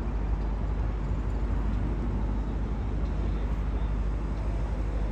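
Steady wind buffeting the microphone, a constant low rumble with a hiss over it.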